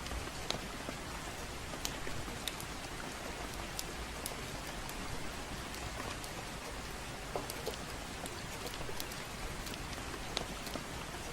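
Steady gentle rain mixed with the irregular sharp crackle of a fireplace, a few pops every second or two.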